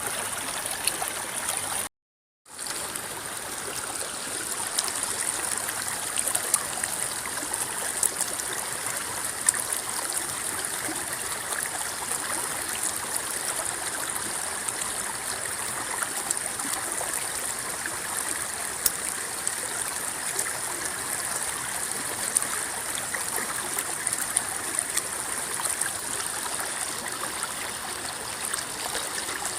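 River water flowing and rippling in a steady rush, with many small splashes and trickles. The sound cuts out for about half a second around two seconds in, then fades back up.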